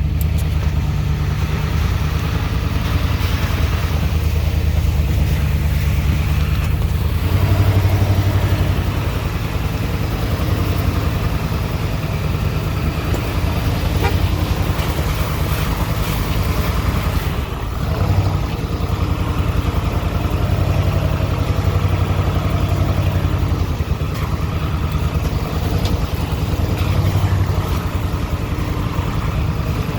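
Big-engined truck running steadily at low speed in four-wheel drive, towing a dead SUV along a rough trail with a low, continuous drone. The pitch wavers slightly with the load and dips briefly about two-thirds of the way through.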